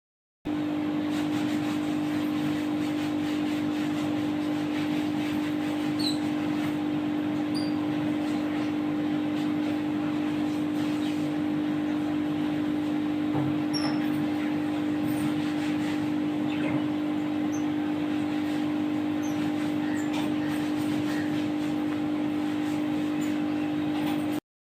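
Steady machine-like hum at one low pitch over a haze of background noise, with a few faint high chirps; it cuts off suddenly near the end.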